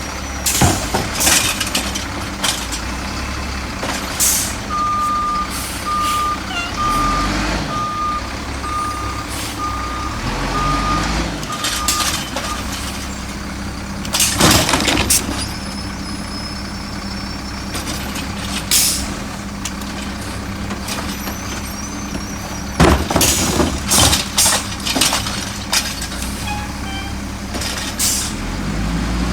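Autocar garbage truck running, its backup alarm beeping about ten times at an even pace for several seconds. Loud short bursts of noise come around the middle and again in a cluster near the end.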